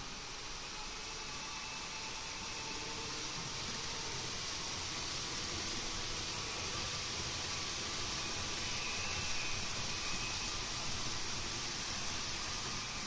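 N-gauge model Shinkansen train running along the track: a steady hissing rumble with a faint motor whine, slowly growing louder.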